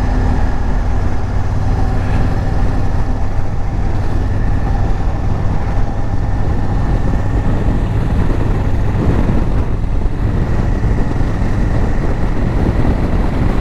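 Honda Africa Twin motorcycle cruising at a steady speed: the engine running evenly under the rush of wind and road noise.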